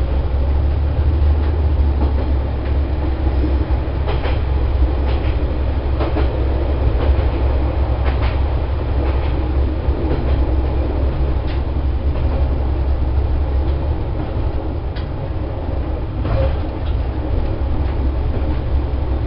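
Diesel railcar running along a single track, heard from inside the cab: a steady low rumble of the engine and running gear, with occasional sharp clicks as the wheels pass rail joints.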